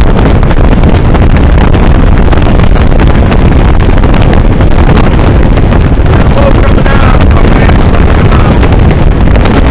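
Heavy wind buffeting the microphone on a motorboat under way, a loud, steady rumble with the boat's engine running beneath it.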